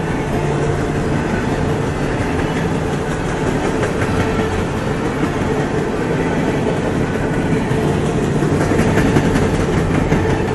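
CSX freight cars (gondolas and covered hoppers) rolling past: steel wheels running on the rails, a steady noise with scattered clicks and clanks that grow busier near the end.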